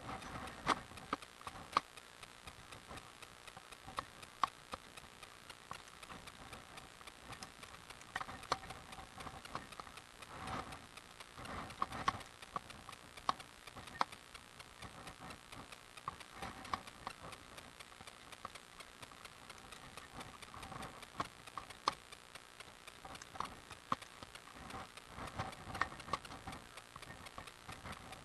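Bicycle ridden down a hill road: irregular sharp clicks and light rattles, one or two a second, over a soft hiss.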